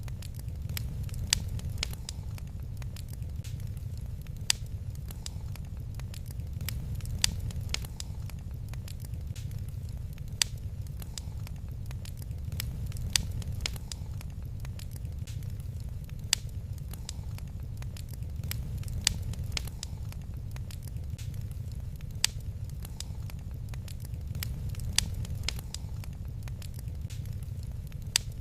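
Wood fire crackling in a fireplace: a steady low rumble of the flames with a constant scatter of small crackles and a louder sharp pop every three seconds or so.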